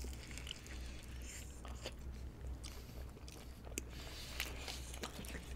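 Faint biting and chewing of a crispy fried-chicken burger, with small crunches and mouth clicks scattered through, over a low steady hum.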